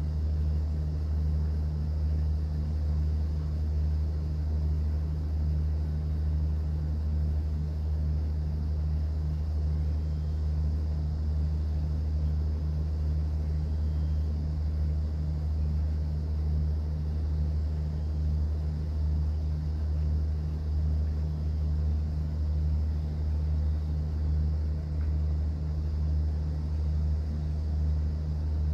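Steady low drone of a cruise boat's engine, holding an even pitch throughout, over a faint hiss of water.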